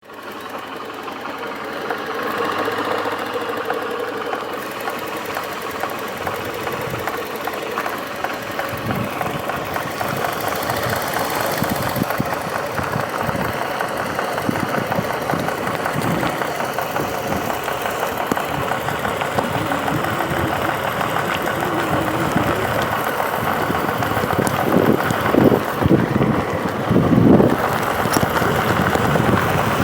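Motorcycle engine running steadily on the move, getting gradually louder, with a few stronger low rumbles near the end.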